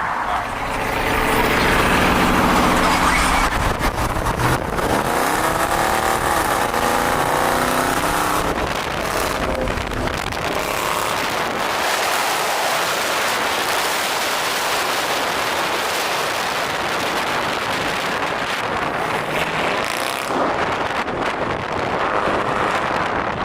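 Dodge Challenger with a freshly fitted aggressive aftermarket exhaust accelerating hard, the engine note climbing and rising again after a shift about four seconds in. After about ten seconds it gives way to steady wind and road rush at speed.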